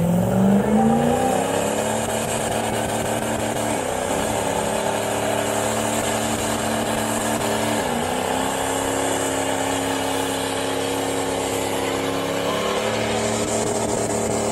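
Truck engine revving up and held at high revs during a burnout. The pitch dips briefly twice and falls back near the end.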